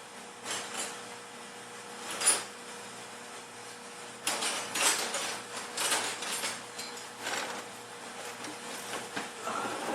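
Hand tools being handled during work on the truck: irregular knocks and clatter, with the sharpest knock about two seconds in and a busier run of clatter from about four to six seconds.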